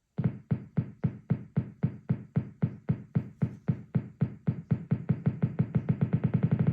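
Behringer Neutron analog synthesizer sounding a pulsing note, about four pulses a second at first, speeding up steadily until the pulses nearly blur into a steady buzz near the end.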